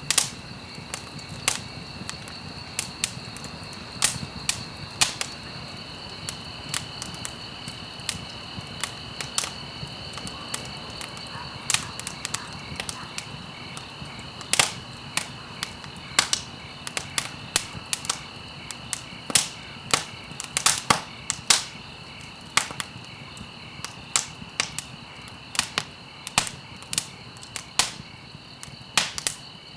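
Wood fire burning in a fireplace, crackling with sharp, irregular pops about two a second over a soft hiss. A faint steady high tone runs underneath.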